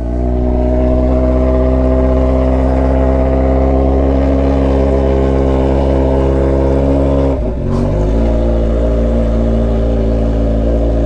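Kawasaki Z900RS inline-four engine through an Atalla stainless-steel 4-into-1 exhaust with a slim 'canela seca' muffler, running loud at steady revs. There is a brief dip in the note about seven and a half seconds in, then it holds steady again.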